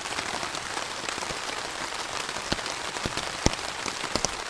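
Steady heavy rain falling, with a few large drops striking close by, the loudest about three and a half seconds in.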